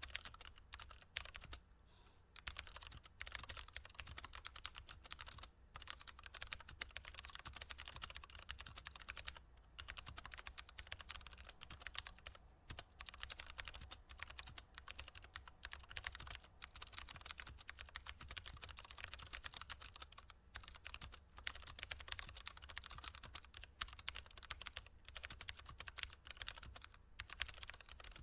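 Computer keyboard being typed on: a fast, continuous run of key clicks and taps, broken by a few brief pauses, over a faint low hum.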